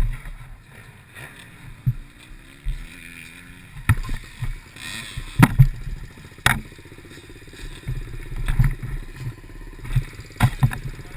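Small 90 cc pit bike engine running at low revs, under irregular sharp thumps and knocks, which are the loudest sounds.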